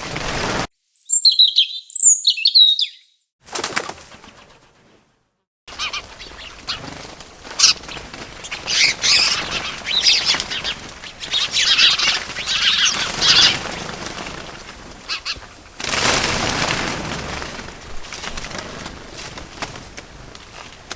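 Small bird sounds: four short high chirps on silence between one and three seconds in, then from about six seconds a long stretch of wings fluttering mixed with twittering.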